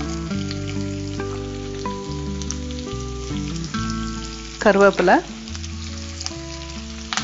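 Chopped onions sizzling and crackling in hot oil with frying cumin and fennel seeds, under background music with held notes. A short voice sounds briefly about five seconds in.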